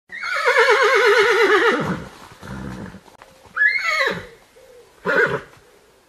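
Horse whinnying: one long quavering neigh lasting nearly two seconds, then a low rumbling sound, then a shorter call that rises and drops steeply about three and a half seconds in, and a brief call about five seconds in.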